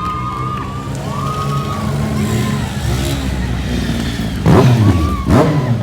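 Motorcycle engines running, with two loud throttle revs near the end, less than a second apart.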